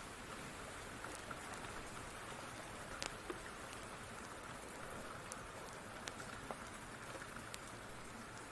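Steady rain falling, with scattered sharp clicks and pops from a crackling wood fire.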